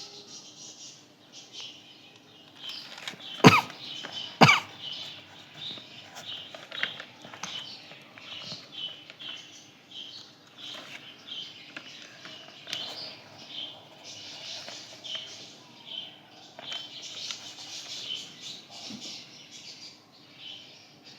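Short, scratchy writing strokes repeating unevenly, with two loud sharp knocks about three and a half and four and a half seconds in.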